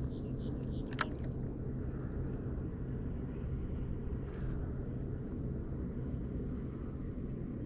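A steady low rumble, with one sharp click about a second in.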